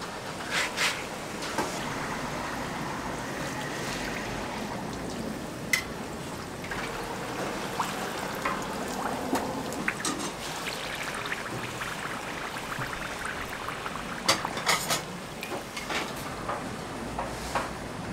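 Hotteok (Korean sugar-filled pancake) frying in oil on a flat griddle, a steady sizzle throughout, with a few sharp clicks and knocks of metal utensils against the griddle.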